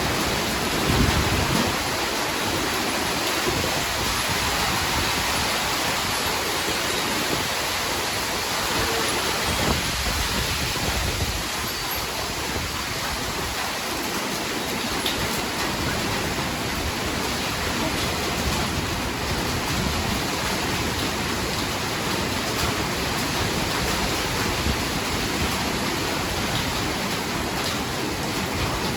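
Heavy rain falling steadily, an even hiss. A brief low rumble about a second in, and a weaker one around ten seconds in.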